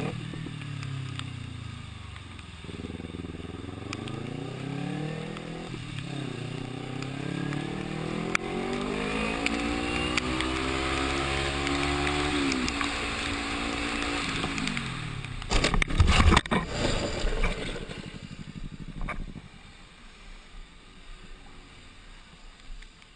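Motorcycle engine accelerating hard through the gears, its pitch climbing and dropping back at each upshift, then cutting off. A crash follows: a quick cluster of loud impacts, the loudest sound, then quieter scraping and scuffing.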